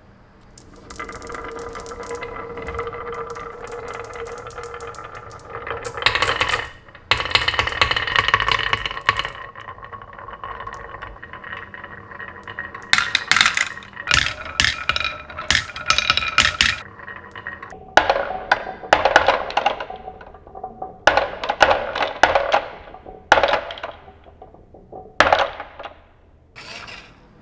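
Marbles rolling and clattering down a marble run: a stretch of steady ringing rolling, then rapid runs of clicks and clacks with short pauses between them.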